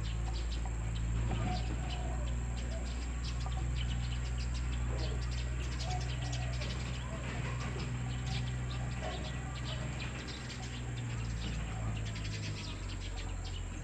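Birds chirping repeatedly in short, rapid notes over a steady low hum.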